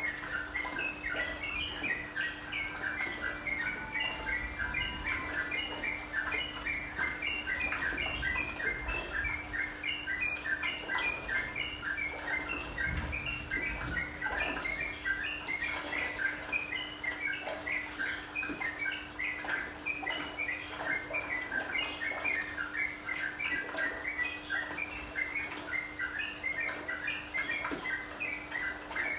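Sooty-headed bulbul (trucukan) song: a dense run of short, bright chirping notes repeated in quick succession, over a steady low hum.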